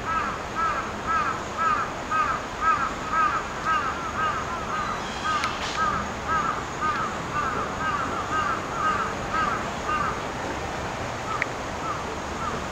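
A bird calling over and over in short, arched calls, two or three a second, dropping off to fainter, sparser calls about ten seconds in.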